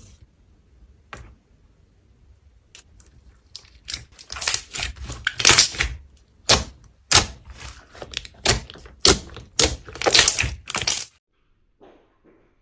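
Slime being pressed and worked by hand, crackling and popping in a quick run of sharp snaps, loudest through the second half.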